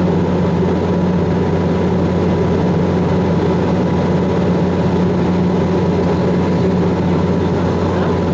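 Airliner engines running with a loud, steady drone, heard inside the cabin.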